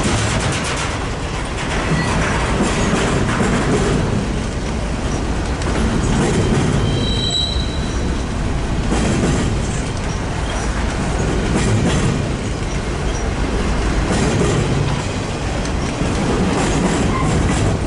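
Freight cars of a BNSF double-stack container train rolling past, wheels clacking over the rail joints with a steady rumble. A short high wheel squeal comes about seven seconds in.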